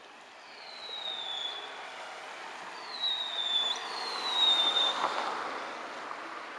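Whistling fireworks going off: four high whistles, each falling in pitch, over a hiss that swells about four to five seconds in.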